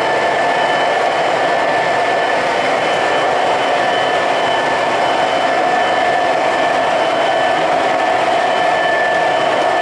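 O gauge model train running on the track: a steady whirring rumble of wheels and motors with a faint constant whine.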